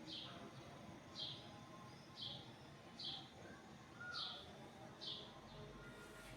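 A bird chirping, one short, downward-sliding note about once a second, seven times in a row, over faint background noise.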